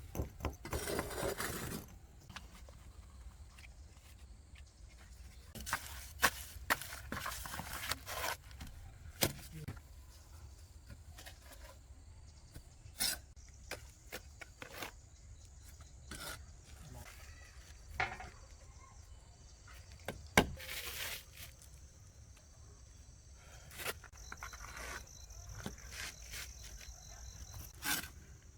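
Intermittent knocks and clicks with a few longer scraping or rustling noises, as of things being handled, and a faint steady high-pitched tone in the later part.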